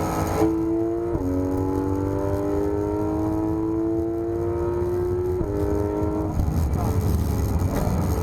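Porsche 991 GT3 RS's naturally aspirated flat-six pulling hard at high revs on track. The note climbs steadily through a long gear, with quick upshifts about a second in and about five and a half seconds in, then the engine comes off the throttle near the end.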